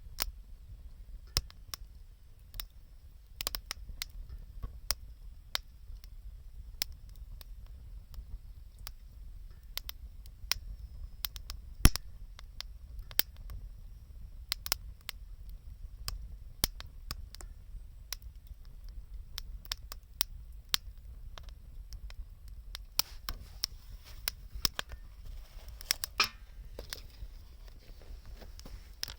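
Wood fire crackling: irregular sharp snaps and pops, with one louder pop about twelve seconds in, over a low steady rumble.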